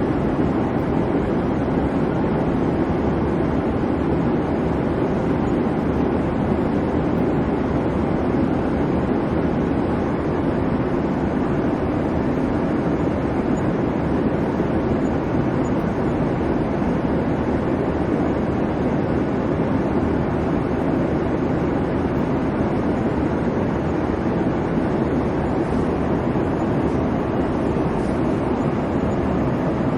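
Airliner cabin noise in flight: a steady, even rumble of engine and airflow, strongest in the low-mid range, with no change throughout.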